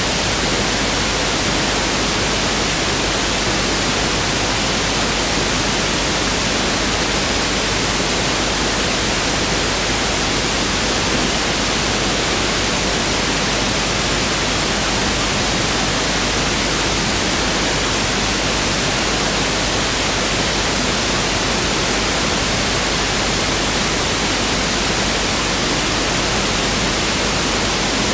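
Pink noise test signal: a steady, even hiss with equal energy per octave (1/f), unchanging throughout.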